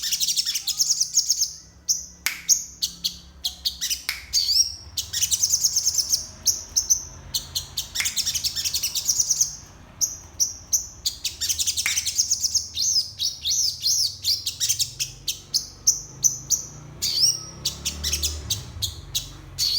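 A caged sogon songbird singing a long, varied song of high, rapid chirps and trills in quick phrases with short breaks, packed with mimicked 'isian' phrases learned from other birds.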